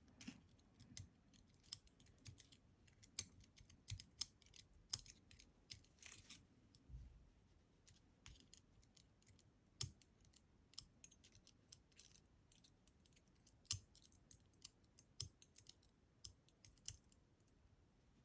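Irregular small metal clicks and taps, a few sharper ones among many faint ones: the discs and spacers of a disassembled DOM Diamant disk detainer lock being worked out of its tight-fitting shell.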